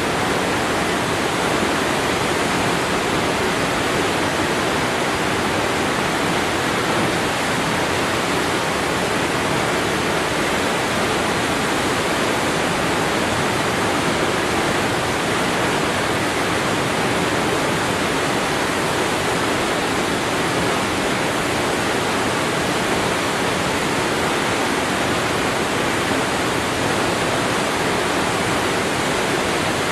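Waterfall: falling water splashing, a steady, even rush with no changes.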